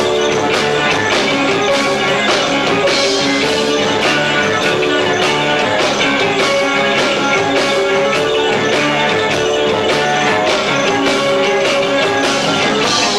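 Rock band playing live with two drum kits, a steady loud band sound with drums hitting regularly throughout, recorded low-fi through a 1990s camcorder's built-in microphone.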